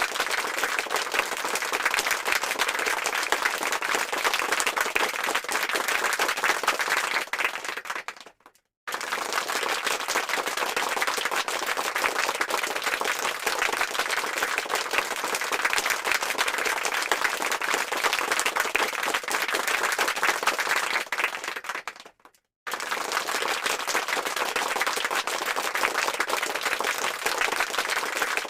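Applause from a crowd: dense, steady hand clapping that cuts out abruptly twice for a moment, about eight seconds in and again near twenty-two seconds, each time resuming at full strength.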